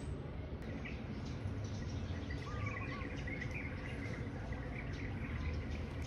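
Faint, high bird chirps come in a loose series from about a second and a half in, with one short whistled note near the middle. Under them runs a steady low rumble of outdoor background noise.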